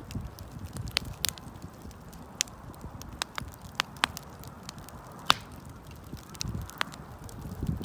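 Wood campfire crackling, with irregular sharp pops and snaps, one louder pop a little past five seconds in, over a low rumble that swells now and then.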